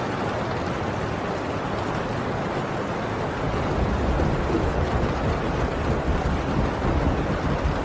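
Heavy rain drumming steadily on a tin roof, a dense even hiss. From about three and a half seconds in, a deep rumble of distant thunder swells underneath and rolls on to the end.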